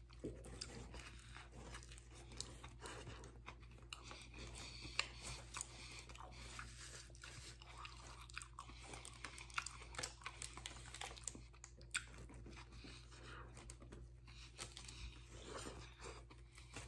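A person chewing a sub sandwich with the mouth close to the microphone: faint, irregular crunching and wet mouth clicks.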